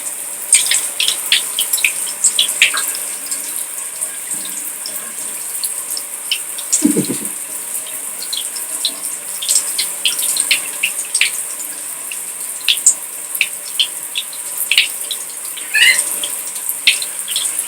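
Shower water spraying steadily, with many small splashes and drips pattering throughout. A short low sound comes about seven seconds in.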